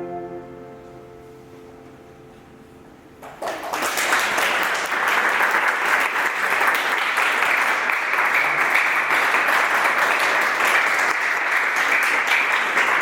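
The last held note of a worship song dies away, then a roomful of people breaks into steady applause about three seconds in and keeps clapping.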